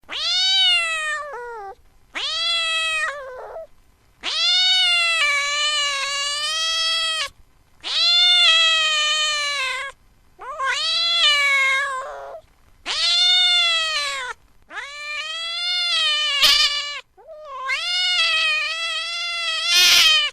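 Cat meowing over and over: about eight long, drawn-out meows, each lasting one to three seconds, with short pauses between them.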